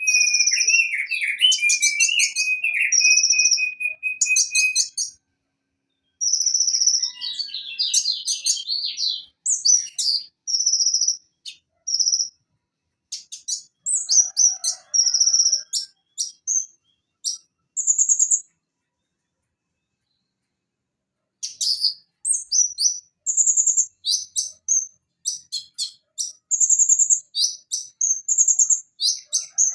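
Purple-throated sunbird (konin) singing: rapid, very high chirps and short trills in quick bursts. A lower buzzy trill runs through the first few seconds, and the song breaks off for about three seconds past the middle before resuming.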